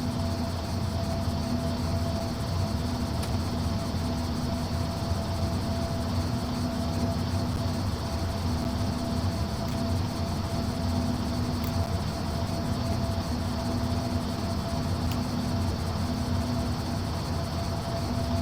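Airbus A330-900 airliner's Rolls-Royce Trent 7000 engines running steadily: a constant hum with several held tones over a steady rushing noise, unchanging in level throughout.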